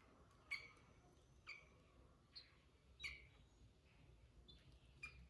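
Sooty-headed bulbul (kutilang) giving short, sharp chirping calls, six of them at roughly one a second, heard faintly.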